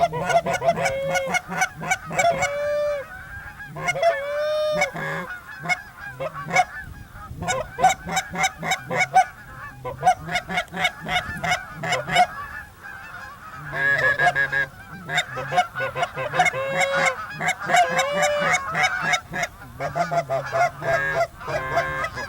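Goose calling: a rapid, unbroken string of short honks and clucks, with a few longer drawn-out calls mixed in.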